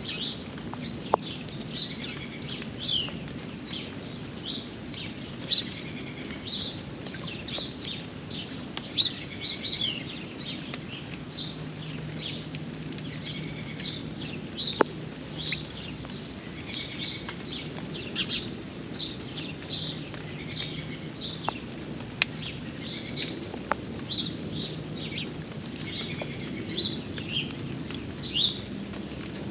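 Songbirds chirping and singing in quick, repeated high notes over steady rain, with a few sharp ticks here and there.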